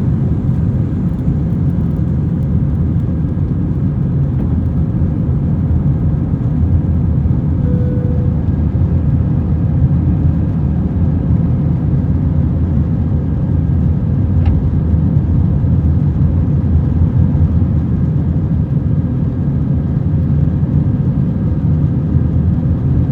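Steady low rumble of an Airbus A321-200 airliner, engine and airflow noise heard inside the passenger cabin.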